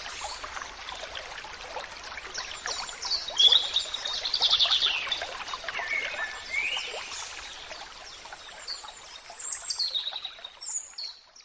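Small birds chirping and singing, with short repeated notes and quick rising and falling phrases over a faint outdoor hiss.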